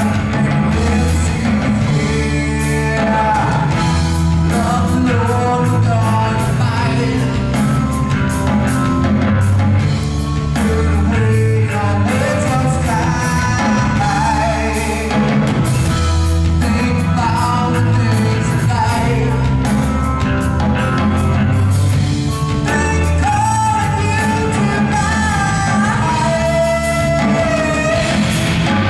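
Christian rock song: full band with distorted guitars, bass and drums, and a voice singing over it.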